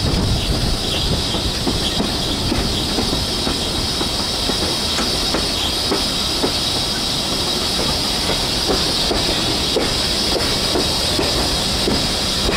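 Steam-hauled passenger train running along the track: a steady rumble of wheels with irregular clicks over the rails under a constant hiss.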